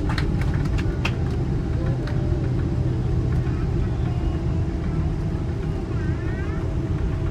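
Steady low rumble inside the cabin of a Boeing 777-200LR airliner, engine and airflow noise heard from a window seat, with a few sharp clicks near the start.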